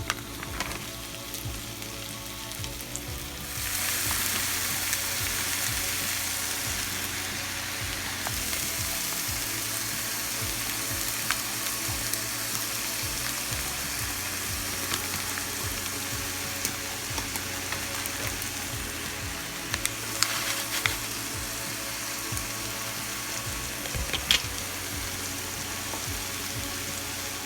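Chicken sizzling as it sautés in a pan of olive oil and butter with onions and peppers. The sizzle gets louder about three and a half seconds in, and a few sharp clicks of a utensil against the pan come near the end.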